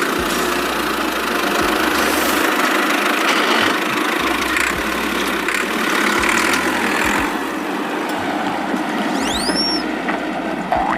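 An engine running steadily, with two short high squeaky glides near the end that rise and then fall.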